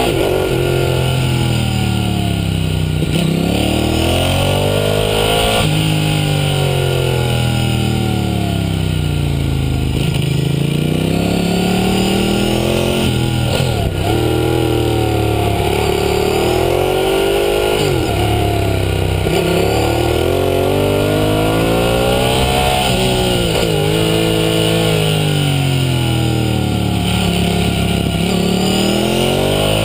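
Ducati Hypermotard 1100's air-cooled L-twin engine, heard close from under the bike, revving hard on track. Its pitch climbs through each gear, then falls away on braking and downshifts, over and over.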